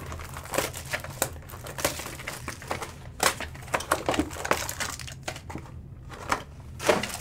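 Foil wrapper of a trading card pack crinkling irregularly as it is handled and opened by hand.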